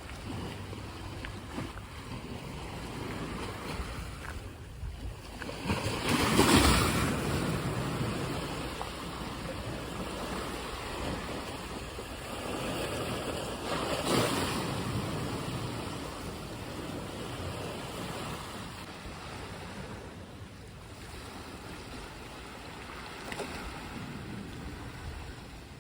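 Sea waves washing onto the shore, a steady rush that swells loudest about six seconds in and again about fourteen seconds in.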